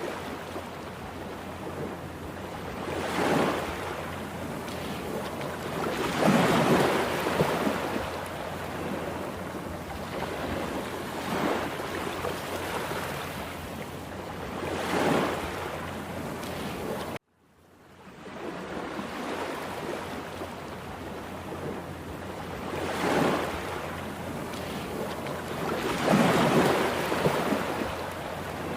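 Rough sea surf: a steady rush of water with waves breaking loudly every few seconds. The sound cuts off abruptly about seventeen seconds in and starts again a moment later.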